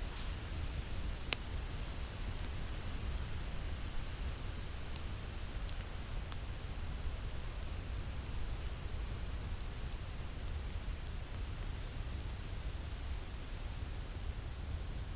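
Winter wind ambience with a crackling fire: a steady low rumble of wind under a constant hiss, with sparse sharp crackles and pops from the fire scattered through it.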